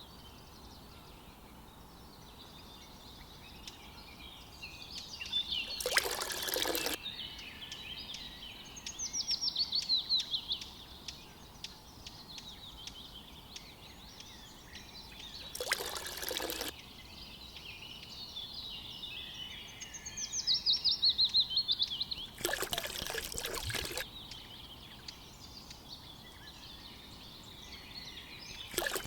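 Small birds chirping, with two loud, fast descending trills about a third and about two-thirds of the way in. Four short noisy bursts cut through, the longest about a second and a half.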